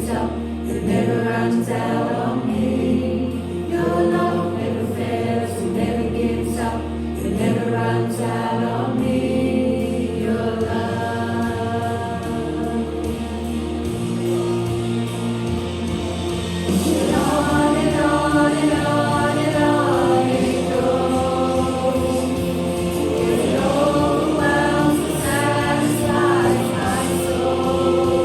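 Church worship band playing with a group of singers: a slow song with sustained bass notes that shift every couple of seconds under the voices.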